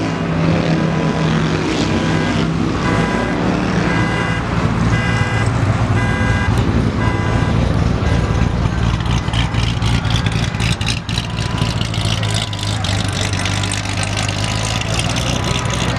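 A car with an aftermarket Armytrix exhaust running with a steady low drone. A repeating beep sounds over it from about three to seven seconds in.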